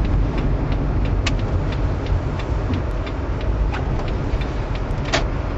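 Subaru car driving on a snow-covered road: a steady low rumble of engine and tyres, with scattered light ticks every fraction of a second.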